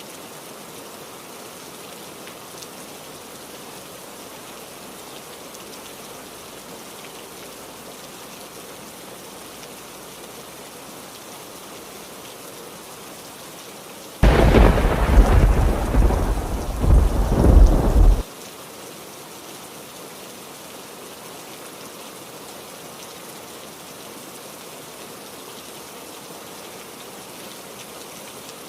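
Steady heavy rain, with a loud thunderclap about halfway through that starts suddenly, rumbles for about four seconds and cuts off abruptly.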